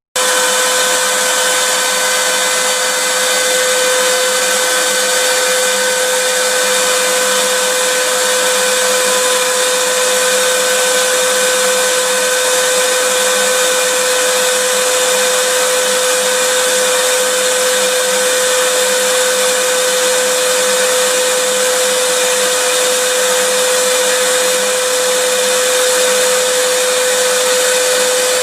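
Vacuum cleaner motor running steadily, a constant rushing noise with a whine held at one pitch.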